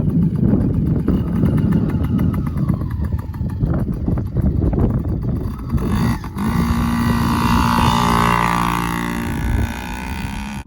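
Small 50 cc kids' dirt bike engine running, rough and fluttering at first; about six seconds in it settles into a steady, even hum.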